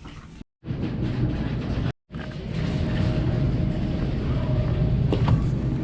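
Car driving: a steady low rumble of engine and road noise. The sound drops out briefly twice near the start.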